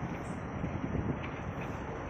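Steady, mostly low noise of heavy earth-moving machinery at work, with a slight swell about a second in.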